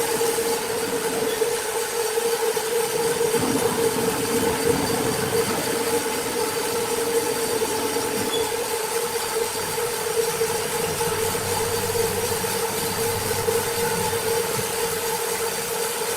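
Sawmill saw machinery running: a steady mid-pitched hum over an even rushing noise, unchanging throughout.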